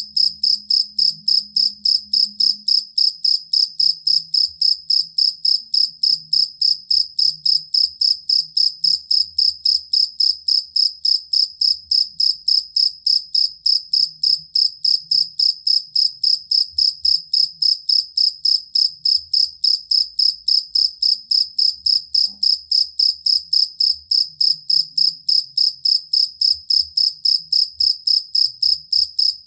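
Field cricket chirping steadily, about three high chirps a second without a break.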